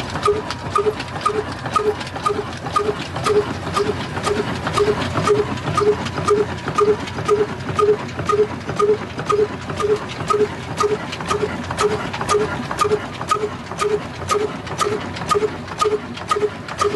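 Old 22 HP diesel engine running steadily after starting, with slow, even knocking beats at about three a second.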